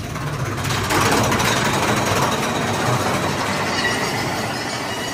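Mine-train roller coaster cars running along the track, a loud steady rattle and rumble that sets in sharply under a second in.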